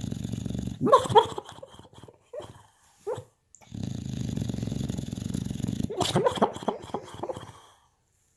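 Sleeping boxer dog snoring with a steady buzzing rasp. About a second in and again about six seconds in, it breaks into short, muffled pitched whimpering cries as it dreams.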